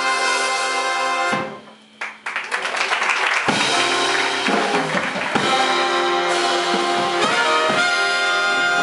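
A big band playing live with held brass and saxophone chords. About a second and a half in the band breaks off into a short near-silent gap, then comes back in with sustained chords.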